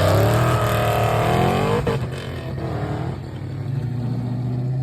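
Car engine revving hard, its pitch sweeping up and down, then easing to a lower, steadier run about two seconds in.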